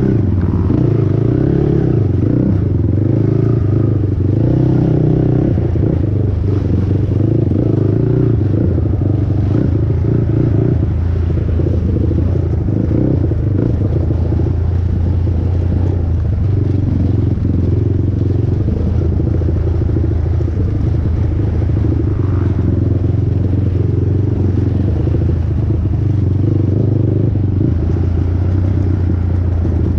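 A 450R sport quad's single-cylinder four-stroke engine running hard during a race, its pitch shifting slightly with the throttle, with clattering over the terrain.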